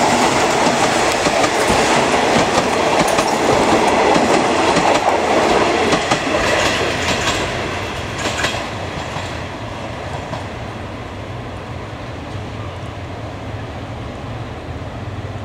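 Thai passenger train coaches rolling slowly past at close range, their wheels clacking over the rail joints. After about eight seconds the sound fades as the last coach moves away, leaving a quieter low steady rumble.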